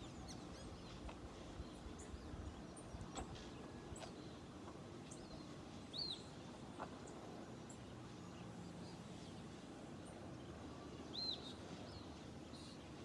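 Quiet outdoor background with a steady low hum and hiss, broken by two short bird chirps: one about six seconds in, one near the end.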